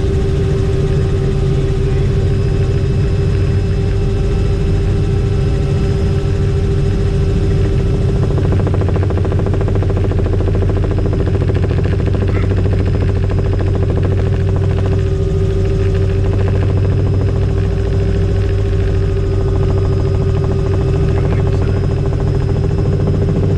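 Helicopter rotor and turbine drone in flight, steady and loud, with a fast even beat from the rotor blades and a constant hum.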